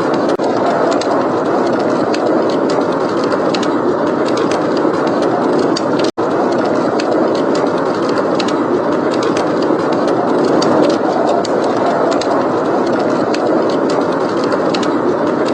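Steady, dense rush of blizzard wind, with small scattered crackles of a wood fire over it. The sound cuts out for an instant about six seconds in.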